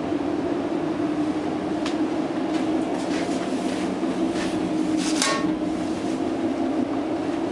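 Steady hum inside a double-decker Aeroexpress electric train carriage, broken by several sharp clicks and knocks; the loudest, about five seconds in, rings briefly.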